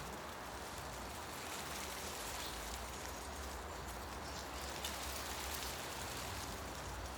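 Wind rustling through tree leaves in a forest, a steady pattering hiss over a low rumble.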